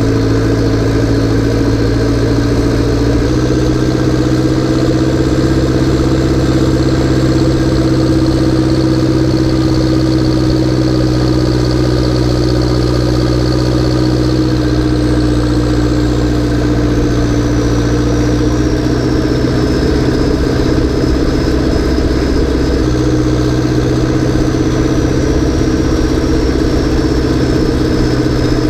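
Massey Ferguson 590T's four-cylinder diesel engine, turbocharged and straight-piped, running steadily while working, its note rising slightly a few seconds in. A high turbo whistle sits over it and falls in pitch around the middle.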